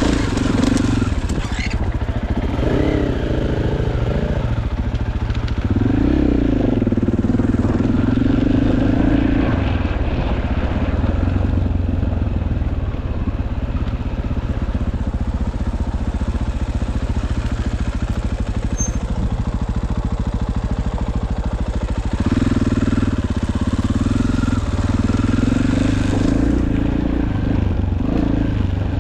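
Dirt bike engine running while being ridden, its note rising and falling with the throttle. It is louder and higher in stretches near the start and again in the last third.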